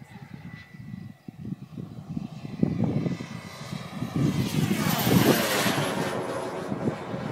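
Radio-controlled model F-16 jet flying past, its whine building to a peak about five seconds in and then sliding down in pitch as it goes by.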